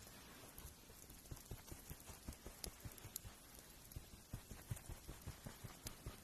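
Faint nail grinding: quick, irregular soft strokes, several a second, beginning about a second in.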